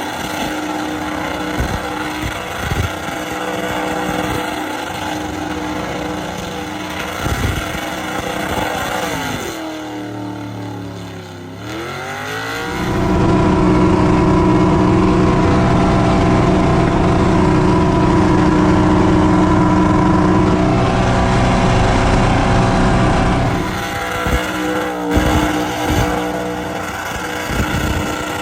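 LS V8 engine of a burnout truck running hard during a burnout. It holds a steady note for about ten seconds, dips and climbs back in pitch, then is held at high revs for about ten seconds before dropping back, with a few sharp pops near the end.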